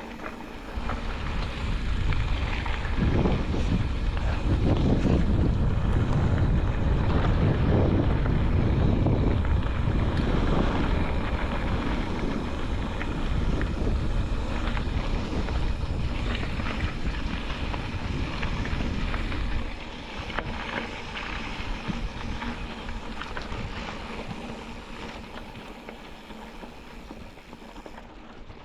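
A vehicle driving, with road rumble and wind buffeting the microphone. The low rumble is loudest for most of the stretch and drops off about twenty seconds in.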